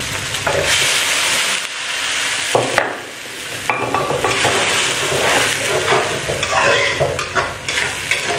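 Red chili paste frying and sizzling in a wok, loudest in the first couple of seconds as the paste goes in from a stone mortar. A metal spatula then stirs it, scraping and clinking against the pan.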